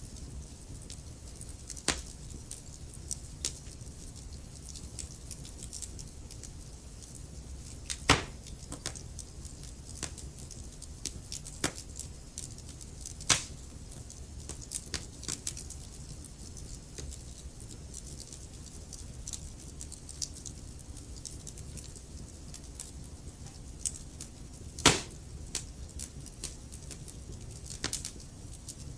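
Wood logs burning in a fireplace: a steady low rumble of flame with scattered crackles and snaps, the sharpest pops about 2, 8, 13 and 25 seconds in.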